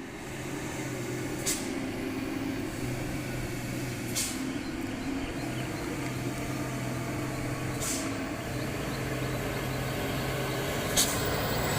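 Heavily loaded dump truck running down a steep grade on its brakes: the engine runs with a low hum that comes and goes, and short sharp air-brake hisses come four times, about every three seconds.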